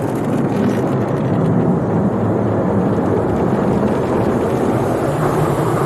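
MacNeil tunnel car wash equipment working on the car, heard from inside the cabin: a loud, steady rush of spraying water and scrubbing wash material.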